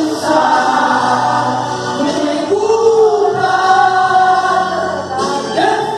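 Gospel praise singing: several voices singing a hymn together in long held, sliding notes over a steady low accompaniment.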